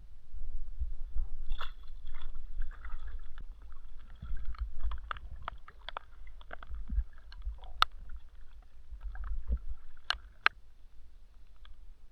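Irregular knocks and clicks of gear being handled on a fishing kayak, over a low rumble.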